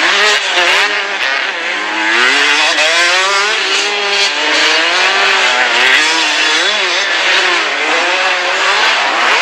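Several motocross bike engines revving up and down together as they race around the track, their pitches rising and falling over one another.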